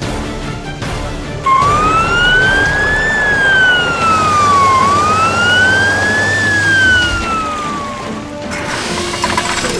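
Police siren wailing in two slow rise-and-fall sweeps, starting about a second and a half in and fading out near the end, over background music.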